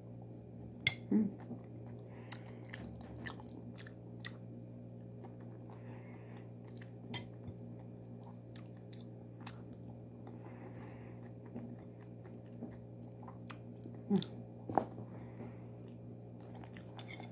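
Close-miked chewing of a mouthful of rice mixed with yogurt and cucumber: soft wet smacking with many small clicks and a little crunch, louder briefly about a second in and again near the end. A steady low hum runs underneath.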